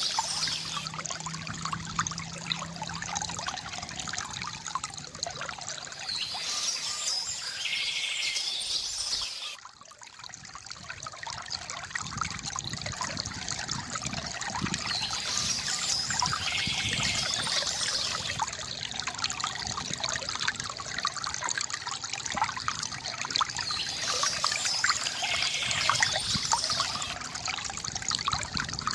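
Water trickling and pouring steadily from a bamboo fountain, with birds chirping now and then in the background. The water sound drops away briefly about ten seconds in, then comes back.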